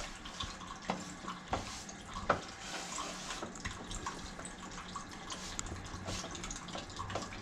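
Water running from a tap into a sink, with scattered light knocks and clicks.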